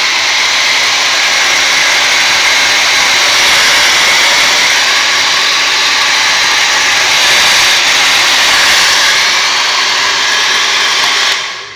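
Tornado 3800 1500-watt hair dryer running steadily, its motor and fan blowing a loud, even rush of air. It is switched off near the end and dies away.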